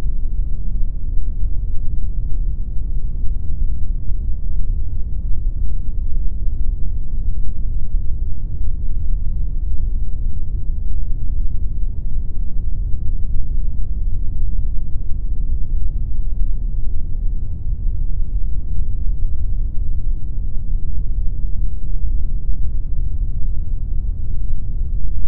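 Continuous synthetic pink noise: a steady, unchanging rumbling hiss weighted heavily toward the low end.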